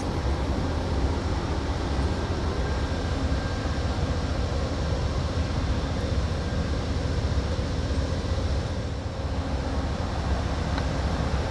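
A train rolling past, a steady low rumble with no horn or distinct clanks.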